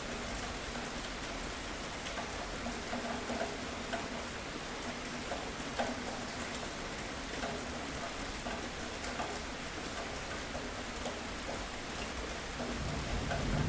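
Steady rainfall with individual drops pattering on a surface. Near the end a low rumble of thunder begins to build.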